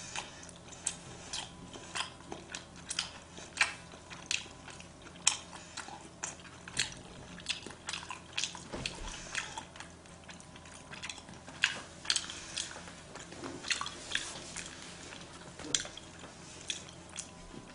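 A person chewing sushi: a string of short, irregular mouth clicks and smacks, about one or two a second.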